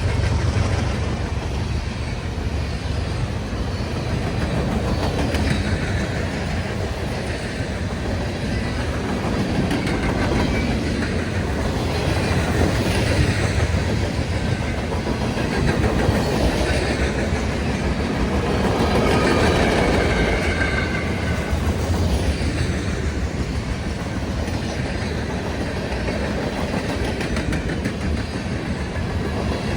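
Freight train's cars rolling past steadily, wheels clacking over the rail joints, with a few faint thin squeals now and then.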